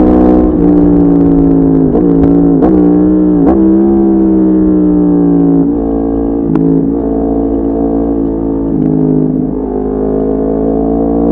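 Yamaha MT-10's crossplane inline-four running through an Akrapovic exhaust while riding, the engine note dipping briefly a few times about two to three and a half seconds in, then holding steady, easing slightly, and starting to climb again near the end.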